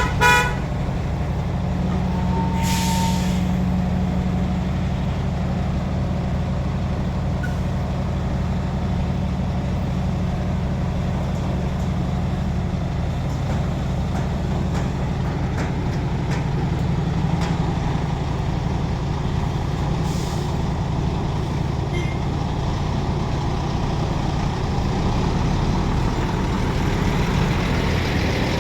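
Container truck's diesel engine running steadily, with a horn toot cutting off just at the start. A short hiss of air, typical of an air-brake release, comes about three seconds in, and a fainter one about twenty seconds in.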